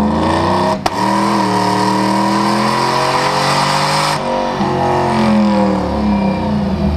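Turbo-diesel pickup engine run hard on a chassis dynamometer, its note shifting in pitch under load over a loud rushing turbo and exhaust noise. A sharp crack comes about a second in, and the rushing noise drops away abruptly about four seconds in while the engine keeps running.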